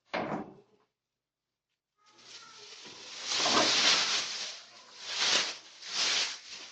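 Cat litter granules rushing and sliding through a self-sifting plastic litter box as it is turned, a hissing pour that swells and eases in several waves. A short clatter of plastic opens it, followed by a second of quiet before the pour begins.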